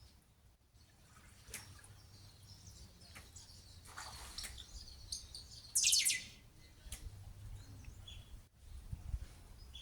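Birds chirping, with a loud, sharp burst of high chirps about six seconds in, over scattered knocks of a pied kingfisher beating a fish against a metal bar.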